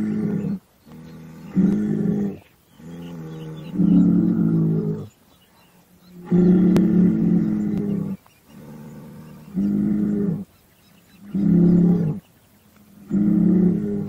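Cattle lowing, added as a sound effect: a run of deep moos, one every second or two, each held on a steady pitch, some short and some drawn out.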